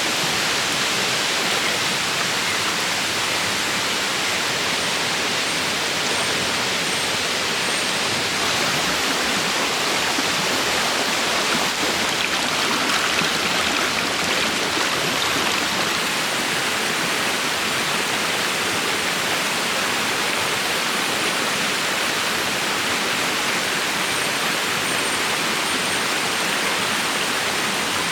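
Steady rush of a river's flowing water, even and unbroken.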